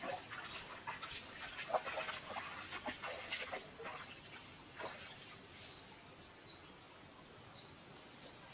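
Birds chirping over and over in short, high, hooked calls, two or three a second. In the first half there are soft splashes of bare feet wading through a shallow stream.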